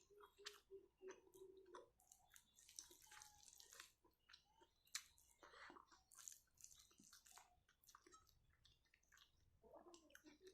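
A person chewing and biting food close to the microphone: faint, irregular wet mouth clicks and smacks throughout.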